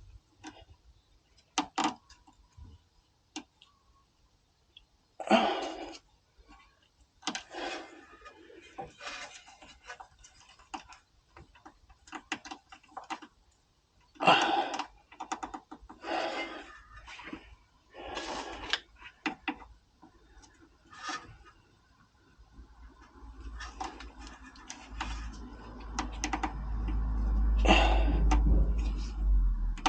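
Hand tools and metal suspension parts being worked, giving scattered sharp clicks, knocks and clinks at irregular intervals. Over the last several seconds a low rumbling noise swells up under them.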